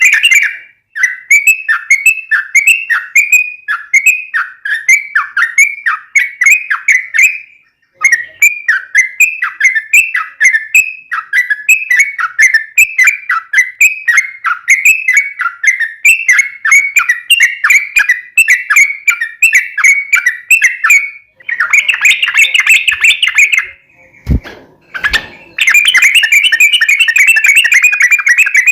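Yellow-vented bulbul (trucukan) singing loudly: a long run of short, quick notes repeated about twice a second, breaking off briefly twice, then turning into faster, continuous chattering near the end. Two low thumps fall in a short pause just before the last chattering.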